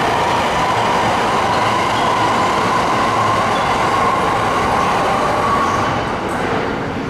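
JR Takasaki Line electric train moving through the station, its wheels rumbling on the rails under a high steady whine that rises slightly in pitch; the sound gets quieter near the end.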